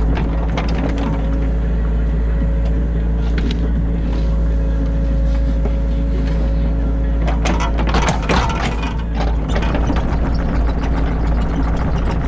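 New Holland E50.2 mini excavator's diesel engine and hydraulics running steadily, heard from inside the cab, with a hydraulic whine for the first half or so. A burst of knocking and clatter comes about two-thirds of the way in, typical of the bucket working in the ditch.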